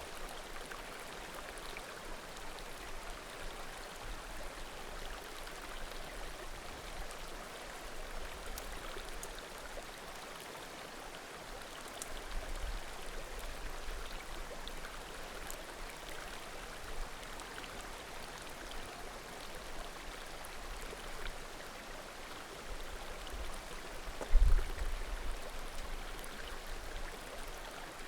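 A small mountain creek murmuring steadily, with faint occasional pops and crackles of burning firewood. A low thump or rumble comes near the end.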